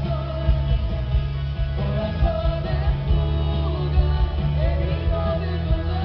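Rock band playing live, a voice singing a melody over loud bass, guitar and drums.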